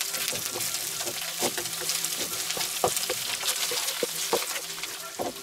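Cubed bread dumplings sizzling as they fry in butter in a wok, with a wooden spatula scraping and giving light taps against the pan as they are stirred and tossed.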